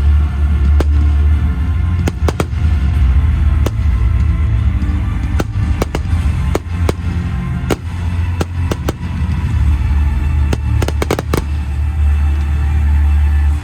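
Fireworks going off in irregular sharp bangs and cracks, with a rapid cluster of reports about eleven seconds in, over loud music with a heavy, steady bass.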